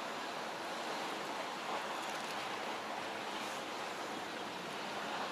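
Steady wash of sea waves at a rocky shore: an even noise with no distinct events.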